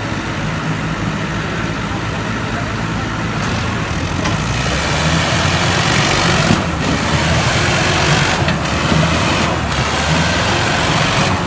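Tractor engine running steadily, growing louder from about four seconds in.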